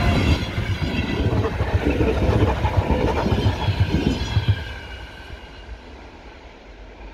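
Electric commuter trains passing close at speed, the wheels rumbling and knocking unevenly over the rails. After about four and a half seconds the sound drops away sharply as the last car goes by, leaving a fainter fading rumble.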